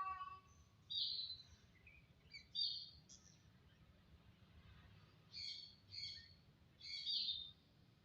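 A jalak, a caged Indonesian starling, whistling and calling in short clear notes. Three quick clusters come in the first three seconds, there is a pause, and three more notes follow near the end.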